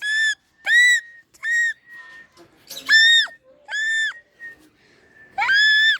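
A person making high-pitched, bird-like calls to coax a lost African lovebird back: about six short, shrill, steady notes, the last one sweeping up from low.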